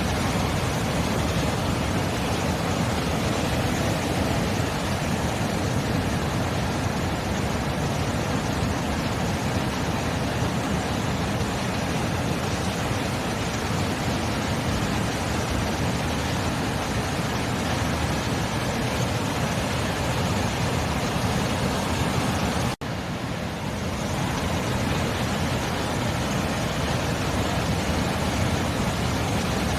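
Steady rushing roar of sea surf. It breaks off for an instant about 23 seconds in and comes back a little softer for a second or so.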